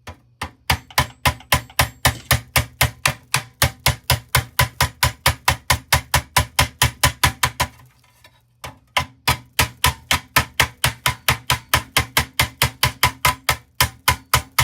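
Small hammer tapping rapidly and evenly on the pressed-steel tabs of a toy truck, about four blows a second, folding them over to lock the parts together. The tapping stops for about half a second around eight seconds in, then carries on.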